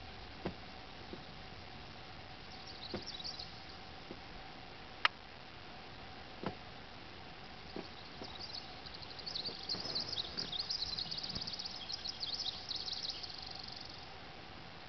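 Quiet lakeside ambience with a faint steady hum and a few light knocks in the first half, then a small bird singing rapid high trills from about the middle until near the end.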